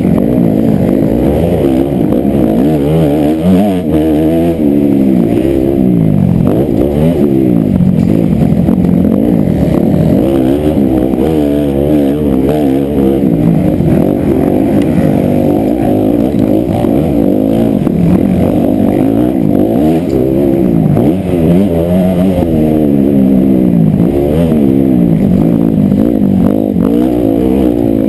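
Honda CRF 250 four-stroke single-cylinder motocross engine, loud and running hard, its pitch rising and falling again and again as the throttle is opened and shut and the gears change.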